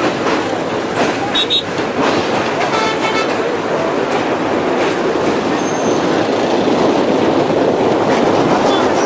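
Train running across a rail bridge: a loud, steady rumble mixed with the rush of wind, with a few brief tones about three seconds in.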